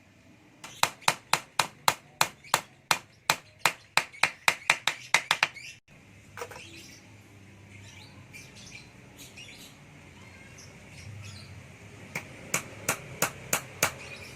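Light hammer taps on cage work, about four a second and getting quicker over the first five seconds. After a quieter stretch the taps start again about twelve seconds in.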